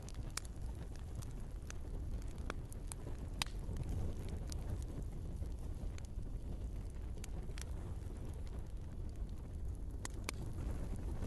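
Log fire in a fireplace crackling: irregular sharp pops and snaps over a steady low rumble of the burning wood.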